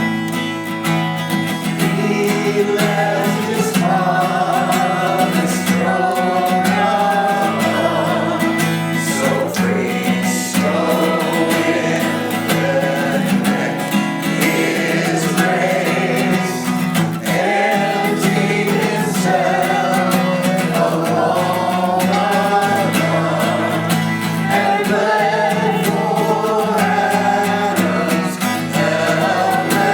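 A group of voices singing a hymn, accompanied by strummed acoustic guitar.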